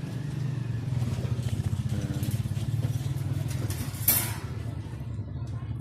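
A small engine running with a low, steady, rapidly pulsing rumble, and a single sharp click about four seconds in.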